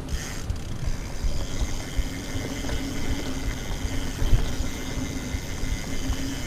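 Mountain bike rolling along a trail: continuous tyre rumble with irregular bumps, a steady hum, and wind buffeting the microphone.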